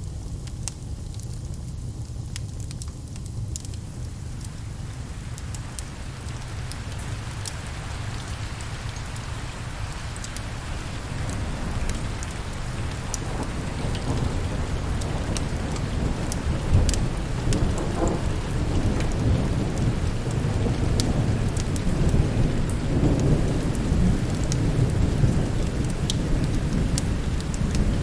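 Steady rain with low rolling thunder that swells and grows louder through the second half, with scattered sharp ticks and pops over it.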